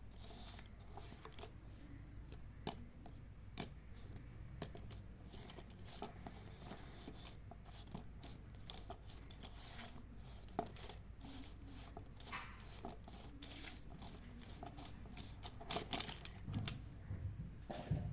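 Faint scratching of a marker on paper with scattered clicks and taps, busier near the end.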